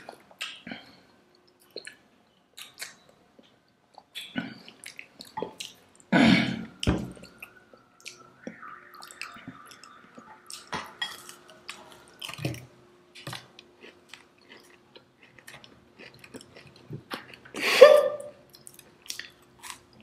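Close-miked chewing and mouth sounds of people eating Indian sweets: irregular small clicks and smacks, with two louder moments about six seconds in and shortly before the end, over a faint steady hum.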